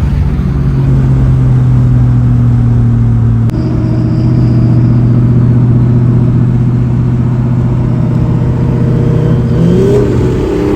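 A car engine drones at steady revs, holding one pitch for several seconds, then rises in pitch near the end as it revs up.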